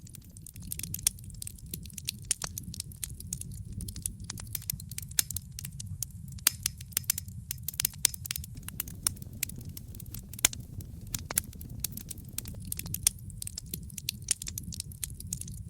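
Wood fire crackling in a fireplace: many sharp, irregular pops and snaps, several a second, over a steady low rumble of the burning fire.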